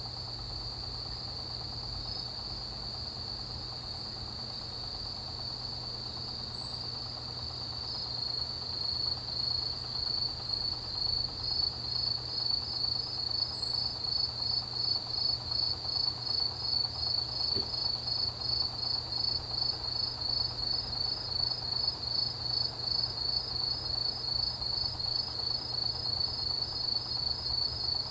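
Autumn grass insects, crickets, calling in a steady trill; about eight seconds in, the trill turns into a louder, evenly pulsing chirp that keeps up a fast rhythm, over fainter high-pitched chirping from other insects.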